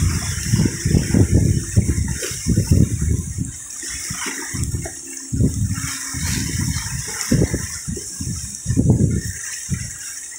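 Strong wind buffeting the microphone in irregular gusts, over a steady rushing hiss of water.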